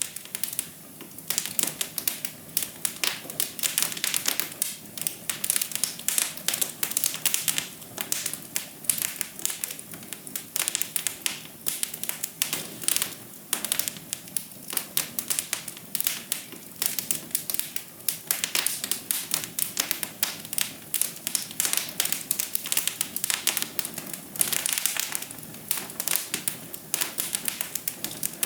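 Wood fire burning in a fireplace, crackling continuously with dense, irregular snaps and pops, several a second.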